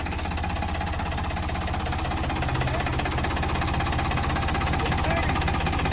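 Farm tractor engine running steadily as the tractor is driven slowly, a low even chug that grows slightly louder.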